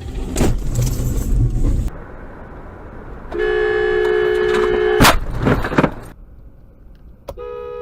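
A car horn gives a steady blast of under two seconds that ends in a sharp bang, followed by a few knocks. Before it comes a loud low rumble with knocks, and the horn sounds again near the end.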